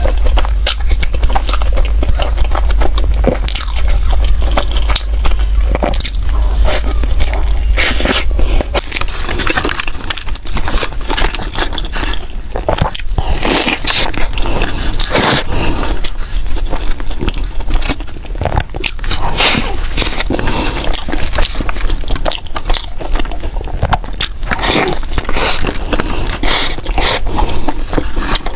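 Close-miked eating of pork floss bread: continuous biting and chewing with irregular small crackles and clicks.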